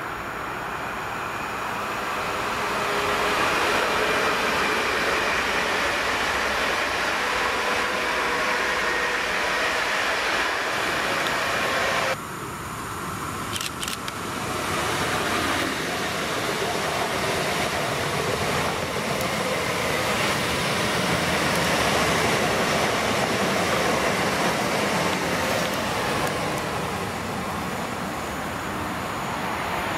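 Electric multiple-unit trains running on an electrified main line: one approaching, then, after a cut about twelve seconds in, a Newag Impuls 45WE unit passing close with steady rolling wheel-on-rail noise that swells as it goes by.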